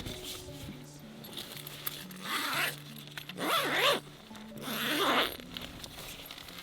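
A zipper being pulled in three quick strokes, on a tent or sleeping bag, over soft background music.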